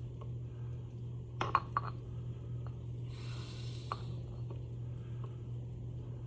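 A few light clicks and clinks of small metal motor parts and screws being handled, a quick cluster about a second and a half in and one more near four seconds, over a steady low hum.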